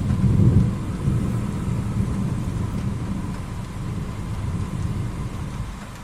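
Thunder rumbling from a lightning flash a few seconds earlier, loudest in the first second, then rolling on more weakly and fading near the end.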